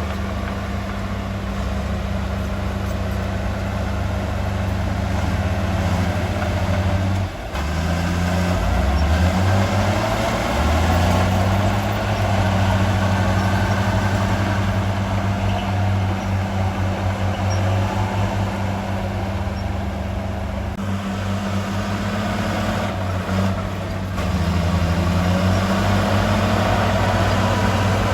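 Heavy diesel engine of construction machinery running under load. Its speed dips briefly about seven seconds in, then climbs, and it rises again near the end.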